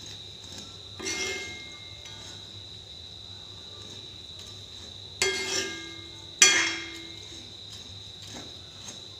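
Spatula knocking against a kadai while stir-frying noodles: three clanks with a short ring, about a second in, about five seconds in and about six and a half seconds in, the last the loudest.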